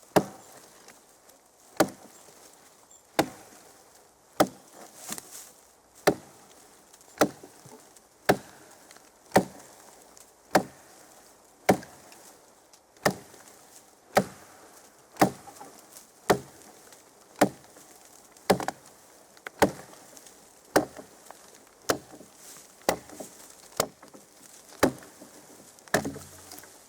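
Homemade 1.5 kg hand axe chopping into a fallen pine log: steady blows about one a second, each a sharp wooden thwack.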